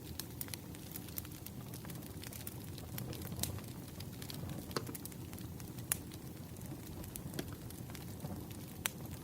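Wood fire crackling: a steady low rumble of burning logs with irregular sharp pops and snaps, a few louder ones about six seconds in and near the end.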